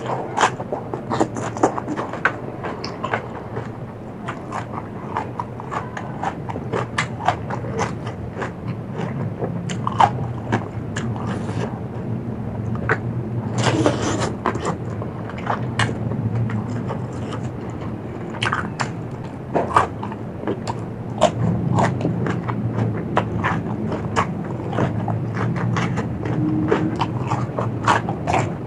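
Close-miked eating: a person chewing and crunching food from a spicy seafood salad, with many irregular, crisp crunches and wet mouth clicks.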